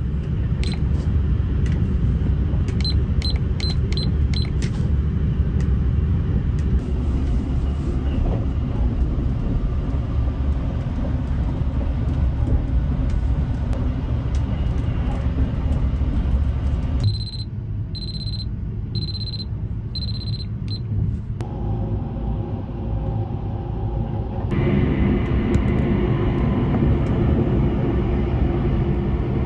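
Steady low rumble of the 285-series Sunrise Express sleeper train running, heard from inside a compartment. Near the start a quick run of short high electronic beeps comes from the compartment's alarm clock panel, and later a slower run of a few beeps about a second apart.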